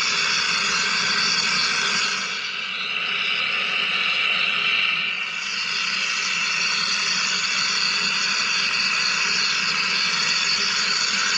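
Wire EDM machine cutting: a steady hiss from the wire spark erosion and flushing water, dipping slightly in level twice.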